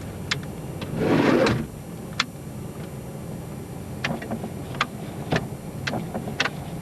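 Minivan idling in the snow. About a second in, a door is shut with a loud, short rush, and scattered sharp clicks follow later.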